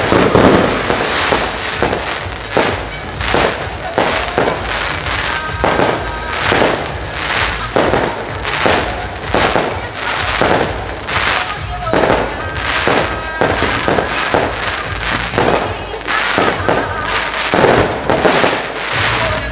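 Fireworks display with a rapid, continuous run of aerial shell bursts and cracks, about two a second, with music from the pyro-musical soundtrack playing underneath.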